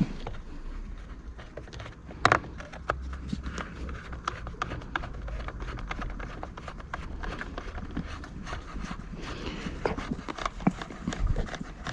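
Irregular clicks and taps of a screwdriver and the blower's plastic housing parts being handled during disassembly, with one louder knock about two seconds in.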